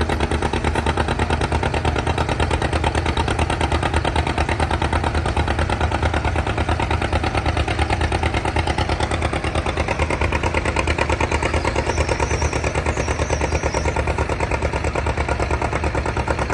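Tractor engine running steadily at idle with an even pulsing beat.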